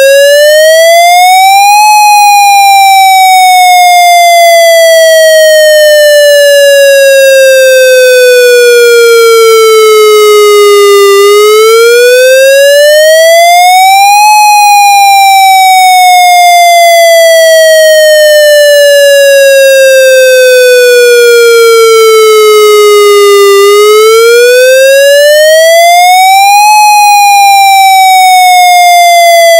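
Federal MCP siren wail signal, heard as raw audio: one clean tone that rises quickly over about three seconds, then falls slowly over about nine, repeating about every twelve seconds, two and a half cycles here.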